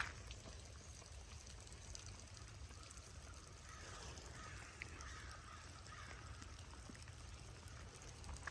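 Quiet outdoor ambience: a low steady rumble with faint, indistinct higher sounds around the middle.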